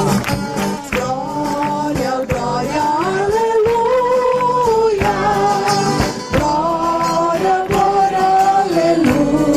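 Group singing a praise song together, holding long notes over a steady beat of tambourine strikes.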